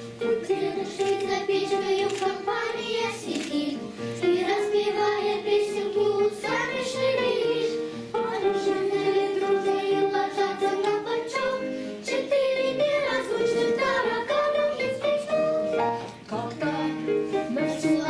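Children's choir singing in unison over instrumental accompaniment, with long held notes.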